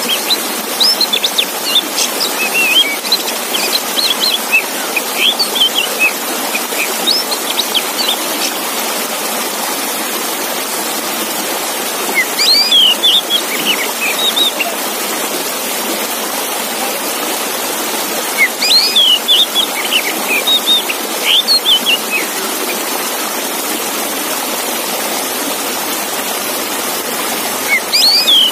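Male oriental magpie-robin (kacer) singing in bursts of quick, sliding whistled phrases, over a steady rush of running water. The song comes in several spells: through the first several seconds, again about twelve seconds in, around nineteen to twenty-two seconds, and briefly near the end.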